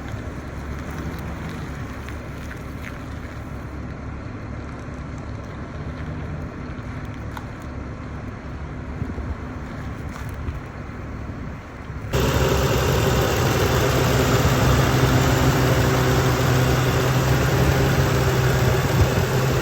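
2010 Ford F450 Super Duty truck engine idling steadily. About twelve seconds in, the sound jumps suddenly louder into a steady hum.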